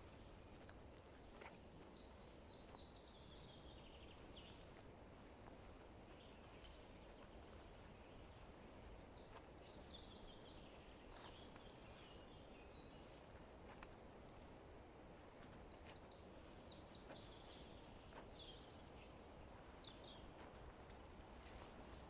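A songbird singing a short phrase of quick notes falling in pitch, repeated three times about every seven seconds, faint over a steady low hiss of forest background.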